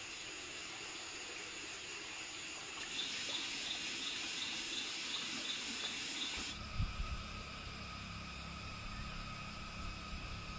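Mountain-forest ambience: a steady rush like running water under several insects trilling, with one pulsing about three times a second in the middle. About six and a half seconds in the sound changes abruptly to different, lower insect tones with a low rumble.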